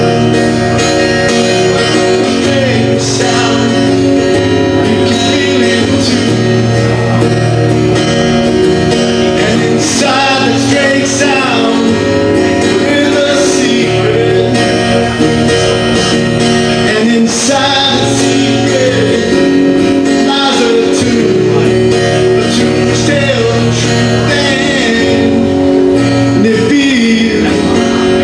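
A song played live on guitar, with a man singing.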